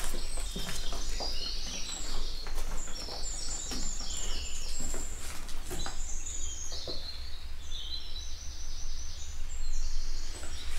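Songbirds singing outdoors, runs of quick high chirping notes in the middle and again near the end, over a steady low rumble with scattered short clicks.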